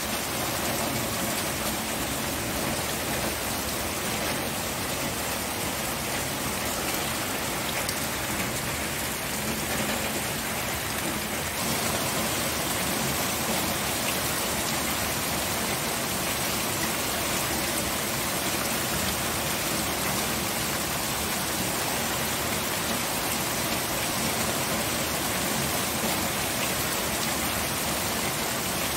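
Steady rain falling, an even wash of raindrop noise with a small step up in level about twelve seconds in.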